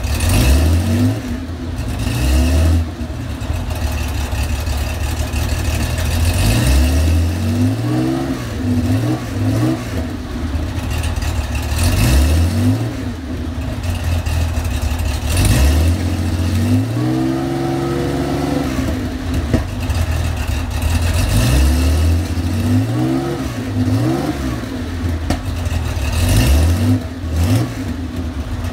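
Air-cooled 3.3-litre flat-six of a 1982 Porsche 911 SC on PMO carburettors and M&K headers, cold and being blipped over and over: the revs rise and fall again and again, with one longer, held rev a little past halfway and a few sharp pops. The cold engine is running rich and backfiring.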